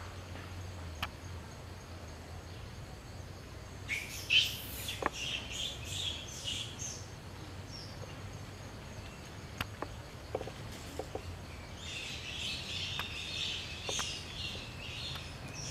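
Birds chirping in bursts over a low background rumble, with a few faint clicks; a denser run of high chirping begins about twelve seconds in.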